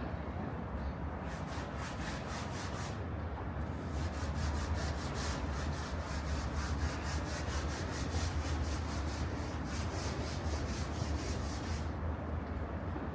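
Rapid rhythmic scraping, about four strokes a second, that starts about a second in, breaks off briefly near three seconds and stops near the end, over a steady low city rumble.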